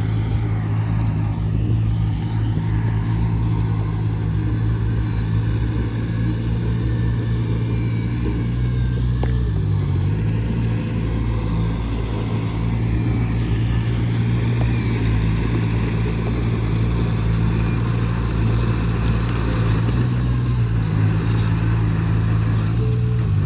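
Heavy diesel engine of earthmoving equipment running steadily under load, its pitch dipping briefly about ten seconds in and again near the end.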